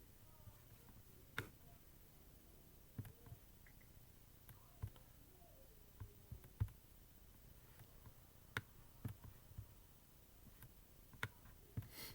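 Near silence: quiet room tone broken by faint, irregularly spaced clicks and knocks, about ten in all.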